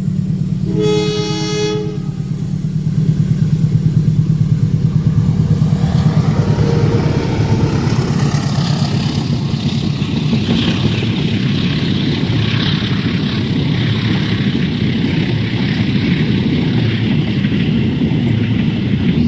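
Diesel-hauled passenger train at a level crossing: the locomotive sounds its horn once, briefly, over its engine hum, then the train passes with a loud rumble and the rhythmic clatter of wheels over the rails.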